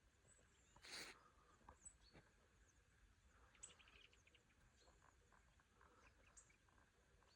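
Faint, scattered chirps of small songbirds over quiet outdoor ambience, with a brief rush of noise about a second in.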